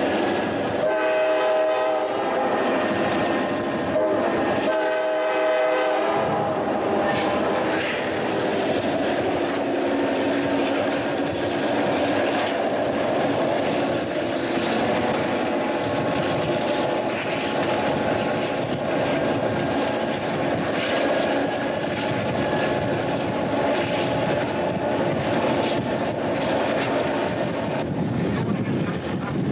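Steady ride noise of a moving passenger train heard from inside the coach, with two blasts of the locomotive's horn, the first about a second in and the second, a little longer, about five seconds in.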